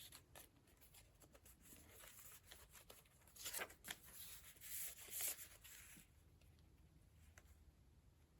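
Faint rustling and swishing of a handmade junk journal's paper pages being turned, with a few soft page-flip swishes around the middle and small paper ticks between.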